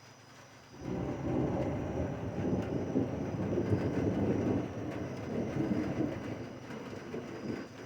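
Rolling thunder: a deep rumble that breaks in suddenly about a second in, churns for several seconds and slowly dies away near the end.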